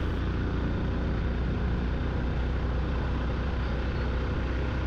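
Yamaha FZ-X motorcycle's 149 cc single-cylinder engine running at a steady cruising speed, mixed with wind rumble on the rider's microphone.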